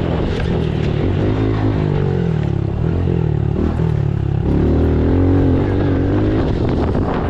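Pit bike engine running under way, its revs rising and falling again and again as the throttle is worked.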